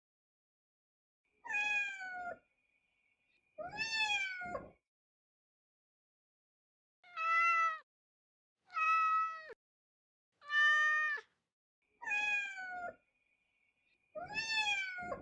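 Cat meowing sound effect: seven separate meows of about a second each, with dead silence between them. The last two repeat the first two.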